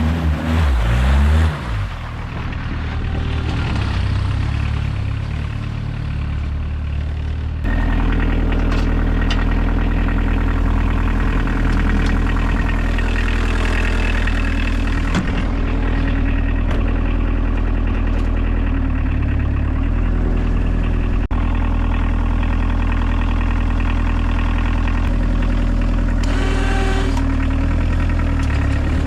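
Diesel engine of a homemade 4x4 UTV running steadily while plowing wet, heavy snow. About eight seconds in, the engine note steps up and gets louder, then holds steady.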